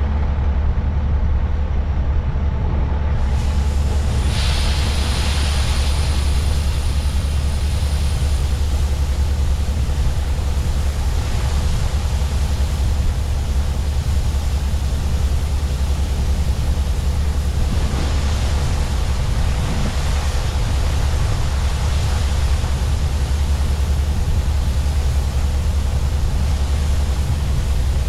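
Heavy diesel farm machinery running steadily with a deep, even drone. About three seconds in, a loud rushing hiss joins and carries on over the engine.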